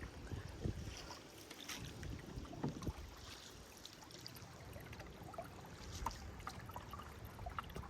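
Canoe paddling on calm water: paddle strokes with water dripping and small splashes, and light wind buffeting the microphone.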